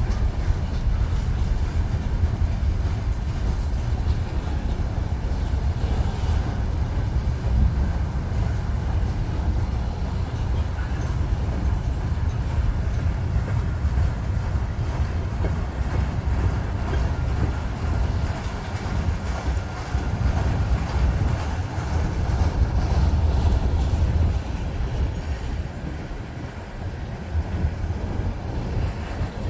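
Freight train cars rolling past with a steady low rumble.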